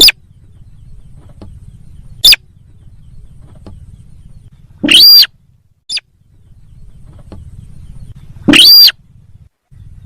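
Lure-call recording of the sintar sawah bird: loud, short calls that rise and fall in pitch, two brief ones early and two longer ones about halfway and near the end, over a faint low hum.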